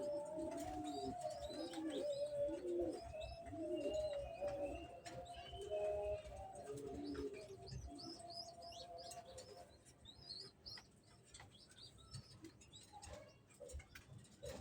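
Racing pigeons cooing in low, repeated notes, with short higher bird chirps over them. The cooing dies away about ten seconds in, leaving scattered chirps and faint clicks.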